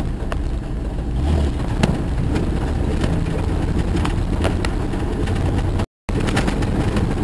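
Jeep driving on a dirt forest road: steady engine and tyre rumble with scattered knocks and rattles. The sound cuts out for a moment near the end.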